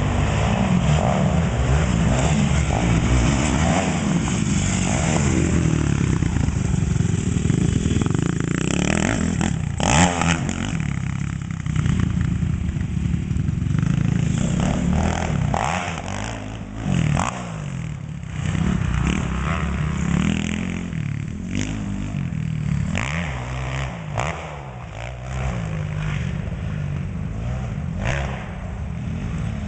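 Honda CRF450 dirt bike's single-cylinder four-stroke engine revving up and down as it is ridden around a track, the pitch climbing and dropping with the throttle. A sharp knock comes about ten seconds in, and the engine note fades back briefly twice later on.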